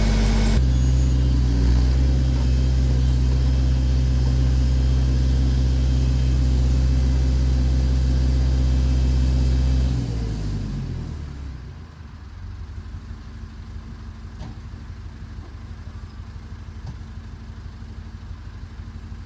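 Massey Ferguson backhoe's engine running steadily at high throttle, then throttled back about ten seconds in, its pitch sliding down over a couple of seconds to a quieter idle with even firing pulses.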